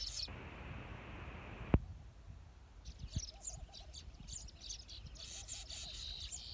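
Weaver birds chirping and twittering in quick high calls, joined by a lower, pulsing call repeated in short runs. A single sharp click sounds about two seconds in.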